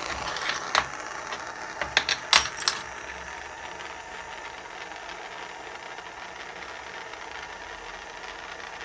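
A handful of sharp metallic clinks of jeweller's tools and metal on a soldering bench, clustered in the first three seconds, over a steady hiss.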